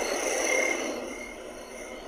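Homedics SoundSleep sound machine playing its frog-and-insect night track through its small speaker: evenly repeating croak calls over a soft hiss. The calls fade down about a second in, leaving a quieter hiss.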